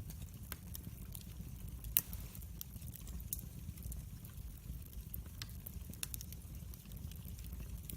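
Wood fire in a fireplace crackling: frequent small pops and snaps over a low steady rumble, with one louder pop about two seconds in.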